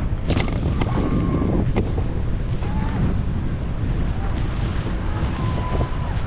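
Strong wind buffeting the microphone, over a steady rush of water.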